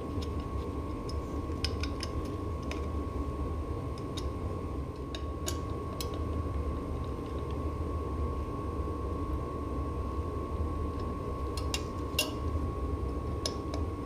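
Scattered light metallic clicks and taps of small bolts and a hand tool being refitted on a bicycle, over a steady low background hum.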